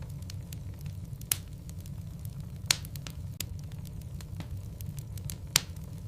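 Wood fire burning in a fireplace: a steady low rumble of the flames with frequent small crackles and three louder pops.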